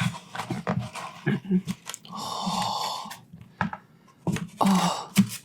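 A woman's close-miked breathy vocal noises: short excited breaths and voiced sounds, then a long breathy inhale lasting about a second, then more short voiced breaths.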